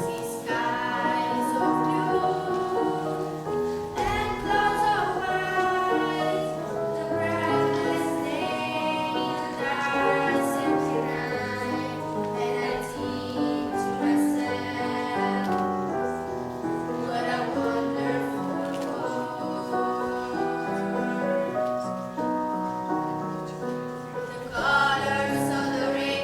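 A choir singing a song, several voices holding sustained notes together that change about every second.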